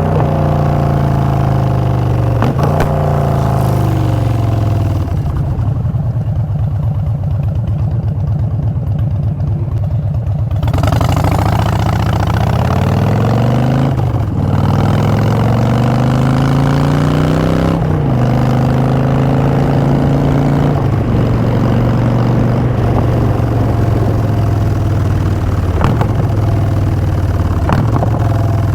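2016 Harley-Davidson Street Bob's Twin Cam 103 V-twin through Vance & Hines Short Shots exhaust, accelerating through the gears: the pitch rises and drops at an upshift about three seconds in. It then falls off the throttle to a low, slow beat for about five seconds, pulls away again with upshifts around the middle, and settles into steady cruising.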